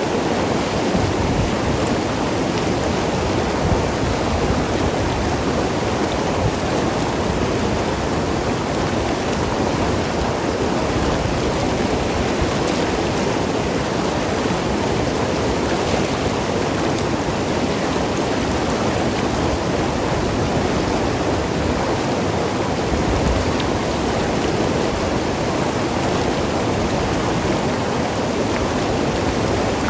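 Mountain river rushing and gurgling over rocks: a steady, even water noise with no breaks.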